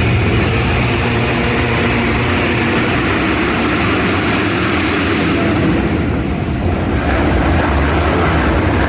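Dirt bike engines running together in a steady, loud drone.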